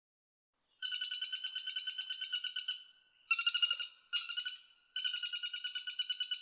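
Woodpecker calling in rapid rattling series of repeated sharp notes, beginning just under a second in: one long run, two short runs, then another long run near the end.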